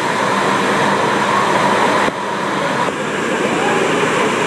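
Automatic car wash running: a loud, steady rush of high-pressure water spray with machinery hum underneath.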